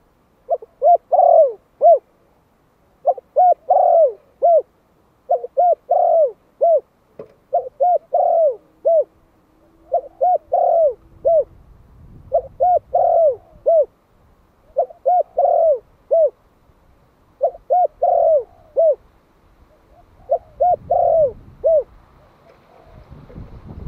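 Malay-strain spotted dove, a young male, cooing its territorial call: nine repeated phrases of about five short notes each, one phrase every two and a half seconds or so.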